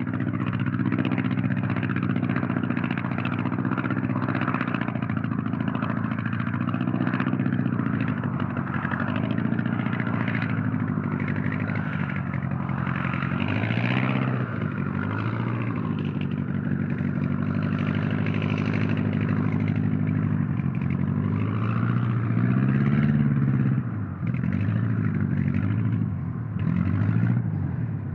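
Single-propeller engine of a Blériot monoplane running continuously, its pitch sagging and rising again several times as the throttle is worked.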